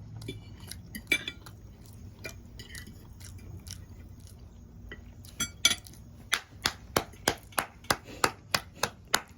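Cutlery clinking against a plate: scattered clinks at first, then from about five seconds in a quick, even run of clicks, about three a second.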